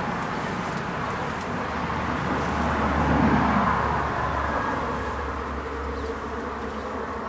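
Swarm of honeybees buzzing in a steady, dense hum that swells a little past the middle and eases off towards the end.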